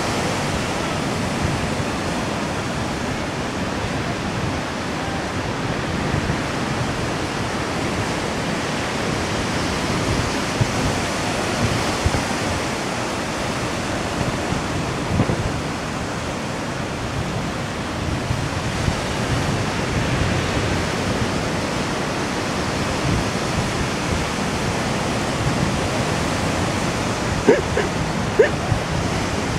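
Steady rushing noise, with a few brief chirps near the end.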